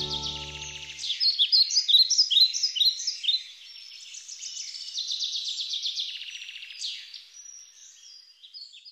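Small songbirds singing: quick trills and repeated downward-sweeping chirps, fading away near the end. The last guitar chord dies out about a second in.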